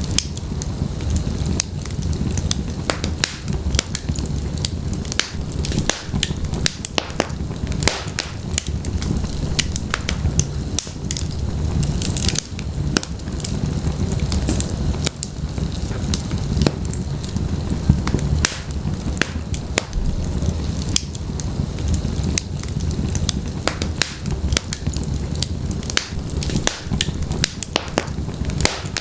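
Wood fire burning in a fireplace: a steady low rumble of flames with frequent, irregular crackles and sharp pops from the burning logs.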